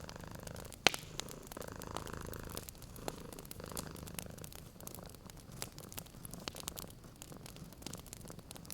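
Domestic cat purring steadily in slow swells, over a wood fire crackling with scattered sharp pops, one louder pop about a second in.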